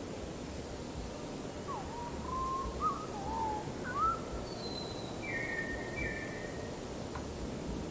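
A bird singing a series of short whistled notes and slurs, lower ones first and then a few higher, thinner notes, over a steady background hiss.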